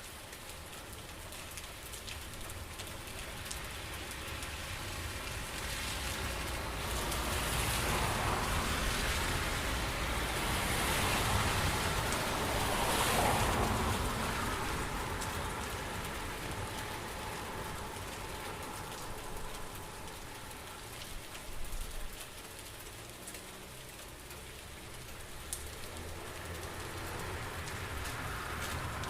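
Steady rain falling, a dense patter of drops that swells louder in the middle and then eases off again.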